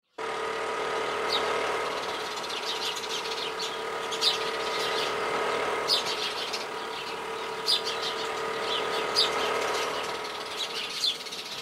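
Birds chirping, short calls repeating about every second and a half over a steady high hum.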